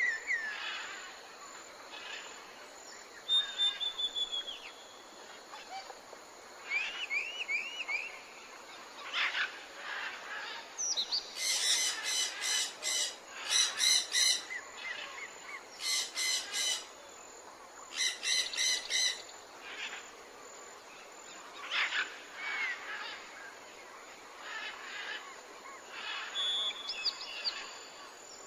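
Wild birds calling: short chirps and whistled notes, with several bursts of rapid repeated calls around the middle.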